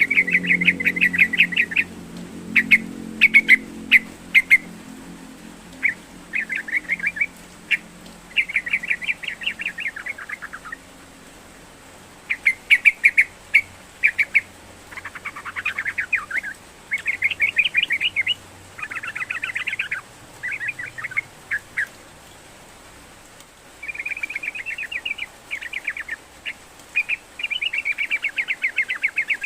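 Yellow-vented bulbul singing: short phrases of quick, bubbly chattering notes, repeated again and again with brief pauses between them. A low hum sits under the first few seconds.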